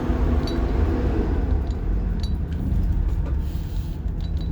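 Rear-mounted diesel engine of a 1990 Blue Bird All American school bus heard from the driver's seat, running with a steady low rumble. Its note drops slightly about halfway, and light clinking rattles come now and then.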